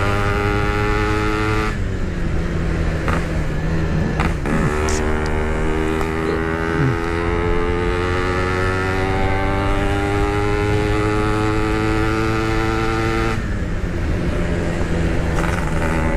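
Yamaha RX-King 135 cc two-stroke single-cylinder motorcycle engine pulling on the road. Its pitch climbs steadily and drops at gear changes about two seconds in, again around four seconds, and near the end.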